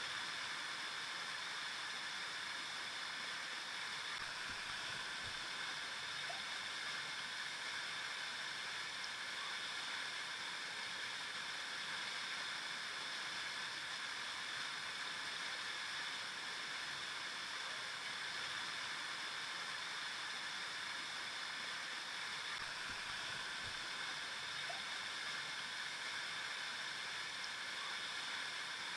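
River water flowing steadily over rocks: an even, unbroken rushing with most of its sound in the mid and high range.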